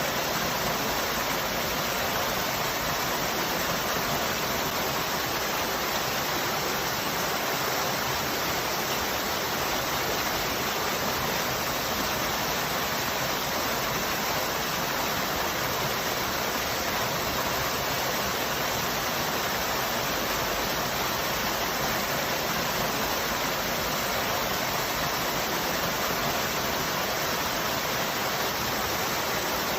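Waterfall, a steady rush of falling water without a break.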